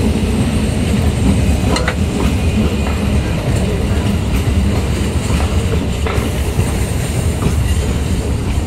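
Electric suburban local train running past at speed: a loud, steady rumble of wheels on rail, with a few sharp clicks as the wheels cross rail joints.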